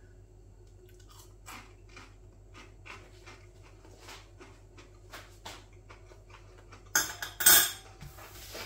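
Chewing a mouthful of crispy, rice-crumb-coated chicken breast burger, with faint crunches about once or twice a second. A louder burst of noise comes about seven seconds in.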